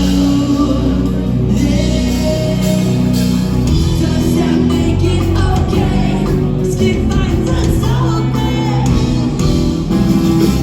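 Live rock band playing: distorted electric guitars, bass and drums, with a singer's vocal line over them, heard in a large hall.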